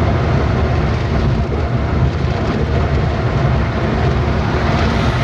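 Steady engine and tyre rumble heard inside the cabin of a moving road vehicle, with no pauses or changes.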